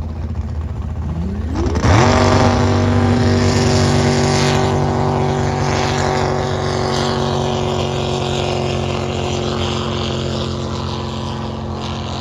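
Drag racing boat engines launching: a low rumble, then a sharp rise in pitch about two seconds in as the throttles open. The engines then hold a steady full-throttle note down the course, slowly fading.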